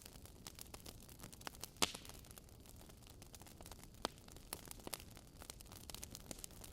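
Wood fire burning in a fireplace, crackling: a steady scatter of small snaps and pops over a low hiss, with louder pops about two seconds in and again about four seconds in.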